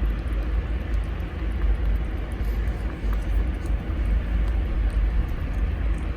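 Steady low rumbling noise, strongest in the deep bass and wavering in loudness, with faint small ticks over it.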